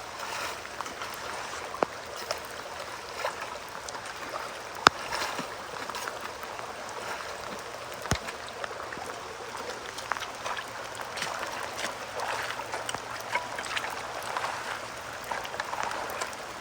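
Rain-swollen creek water streaming and gurgling into a roadside culvert, steady throughout, with scattered sharp clicks and knocks over the flow.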